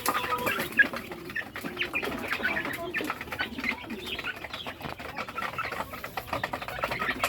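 A flock of young Rhode Island Red chickens peeping and clucking at feeding time, with many short overlapping calls and scattered light clicks.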